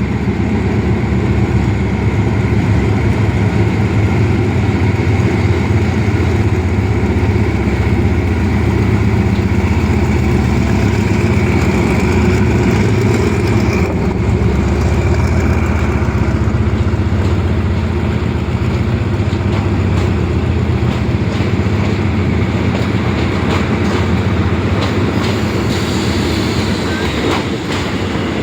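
Diesel passenger train running along the track: a steady low engine drone, with wheels clicking over the rail joints more and more often towards the end.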